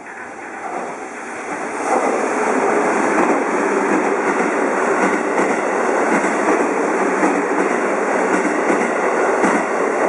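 JR Central 373 series six-car electric multiple unit passing through a station at speed without stopping. The noise builds over the first two seconds as it approaches, then holds as a loud, steady rush of wheels on rail while the cars go by.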